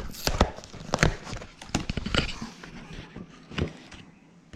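Irregular knocks and clicks, several close together at first and thinning out near the end.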